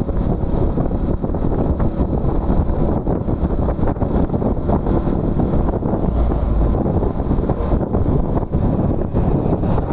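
Steady, loud wind rush buffeting the microphone of a moving motorcycle, mixed with the low rumble of the ride.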